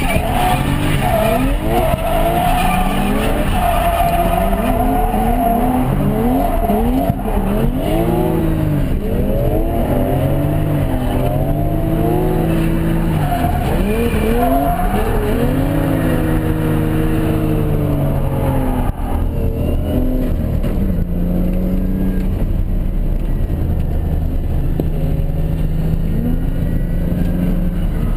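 Turbocharged 1JZ straight-six of a Toyota Mark II drift car, heard from inside the cabin, revving up and down over and over through a drift, with tyres squealing. About two-thirds of the way through, the engine settles to a steadier note.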